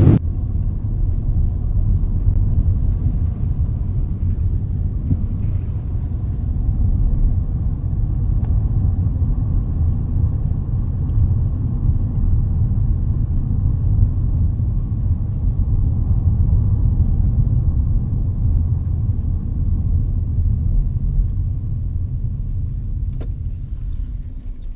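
Steady low rumble of a car being driven, engine and road noise together, easing off over the last few seconds.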